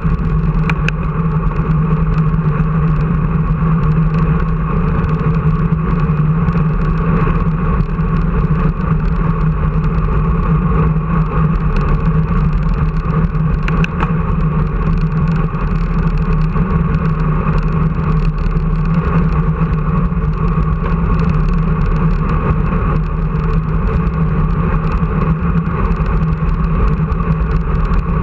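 Steady engine drone held at one unchanging pitch, loud and even throughout.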